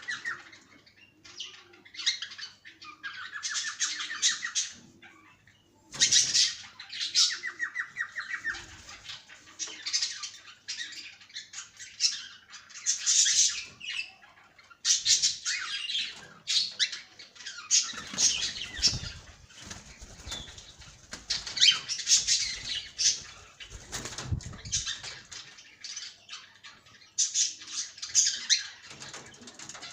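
Cockatiels chirping and calling in quick runs of short high notes. Buzzy trilled calls come in the first several seconds, and bursts of wing flapping arrive past the middle.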